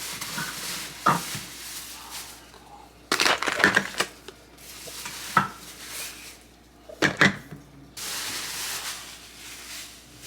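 Household items and containers being handled and set down: a handful of sharp knocks and clatters, then a steady hiss near the end.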